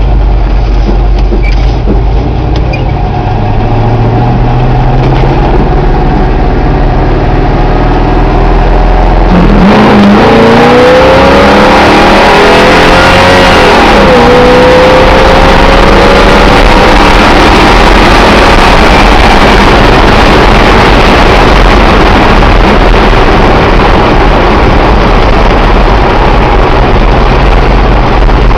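1988 Dodge truck's 360 small-block V8 idling with a low, steady rumble. About ten seconds in it is revved up, the pitch rising and falling, and it then runs loud and steady at higher revs.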